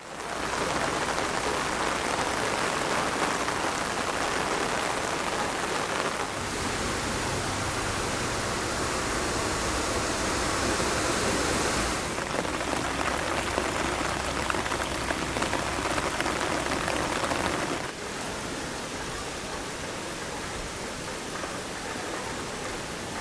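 Heavy rain pouring down in a steady dense hiss. It shifts abruptly in level and tone about six, twelve and eighteen seconds in, with a low rumble underneath in the middle part and a quieter last stretch.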